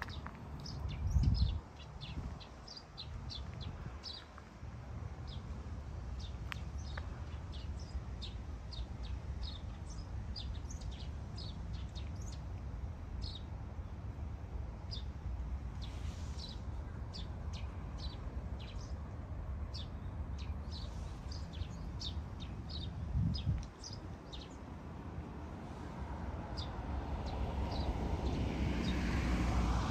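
Small birds chirping: many short, high calls scattered throughout, over a steady low outdoor rumble. Two brief low thumps, about a second in and near the middle-to-late part, and a rushing noise that swells near the end.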